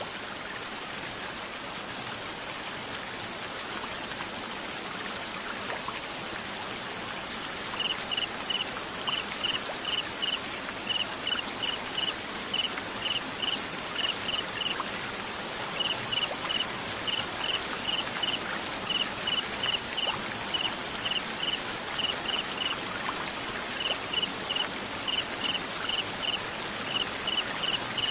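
Steady hiss of rain or running water, joined a little over a quarter of the way in by a cricket chirping: short pulses at one high pitch in quick regular groups, pausing briefly about halfway.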